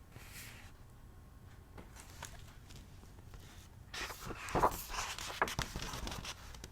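A soft paper rustle with a few light taps about four seconds in, as a picture-book page is turned.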